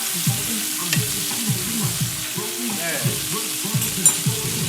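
Chicken breasts sizzling steadily as they fry in a pan, with a few light clicks and a song playing quietly underneath.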